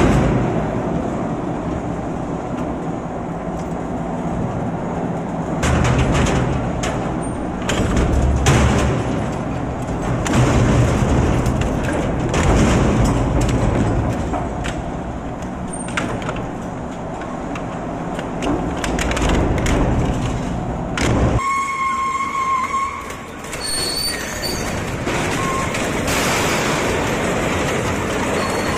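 Industrial multi-function shredder running, with a heavy rumble and a dense clatter of knocks and crunches as material is broken up. About three-quarters of the way through, the low rumble drops away and a steady high-pitched tone comes in over continued clatter.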